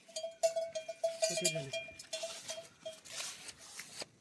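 A small livestock bell ringing repeatedly, with a goat's short bleat falling in pitch about a second and a half in.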